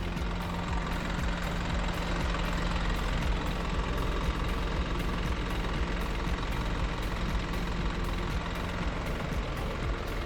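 Diesel engine of a 2020 GMC box truck built on the Isuzu NPR platform, idling steadily with an even low hum.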